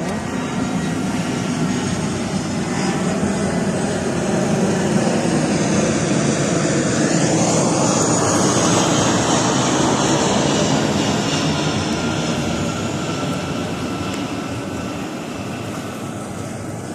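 Aircraft passing overhead: a broad engine roar that builds to a peak about halfway through, with a rising whine as it nears, then slowly fades.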